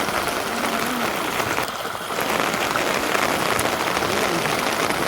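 Steady rain pattering, a dense hiss of many small drops, briefly thinning just under two seconds in.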